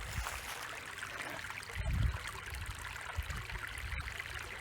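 Small stream running and trickling over its bed, with a brief low rumble about two seconds in.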